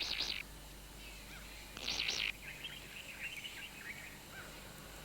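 Malachite kingfisher nestlings calling in their nest chamber: a high, rapid buzzy call that stops less than half a second in, another about two seconds in, then fainter short chirps.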